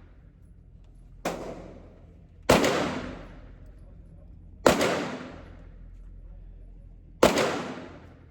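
Four pistol shots at irregular intervals, each sharp crack followed by about a second of echoing decay; the first is quieter than the other three.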